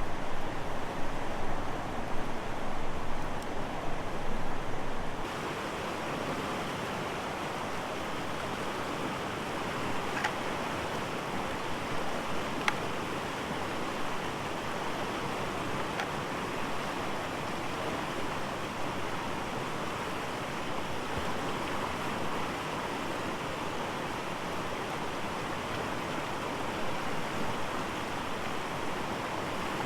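River water rushing steadily. It is louder and more uneven for the first few seconds, then settles to an even level, with a few faint clicks.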